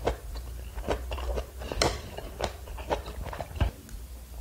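Close-up mouth sounds of a person chewing tteokbokki rice cakes in sauce: irregular wet smacks and clicks. Near the end, metal chopsticks scrape and tap in the pan.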